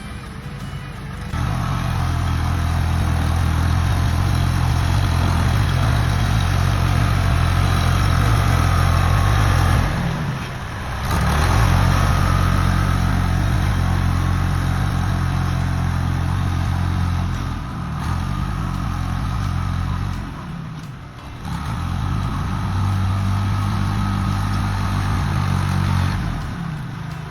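Old John Deere tractor's engine running steadily under load, easing off briefly a few times as it works.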